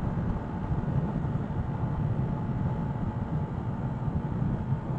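A 125cc motorbike riding along at a steady speed, its engine running evenly under a constant rush of wind and road noise.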